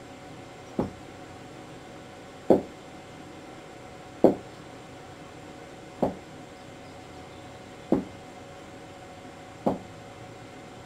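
Domestic rabbit thumping its hind feet, six single thumps spaced about two seconds apart. It is an alarm signal at an unfamiliar object, the camera, near the rabbit.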